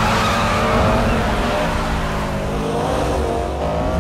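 Several high-performance car engines revving hard as the cars launch off the line and accelerate, with several engine notes layered over tyre and wind noise.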